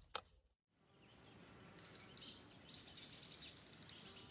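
Birds chirping in rapid, high-pitched trills over faint outdoor background noise, starting a little under two seconds in after a brief silence.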